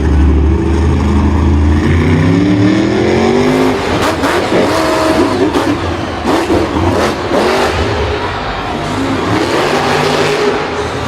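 A vehicle engine running low and steady, then revving up in a rising glide about two seconds in. After that comes a busier mix of engine sound with sharp knocks.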